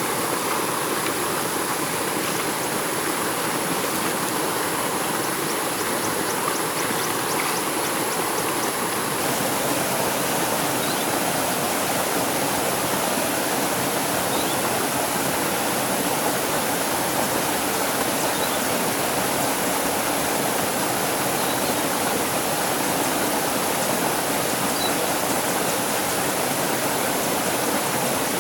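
Stream water running with a steady, even rush.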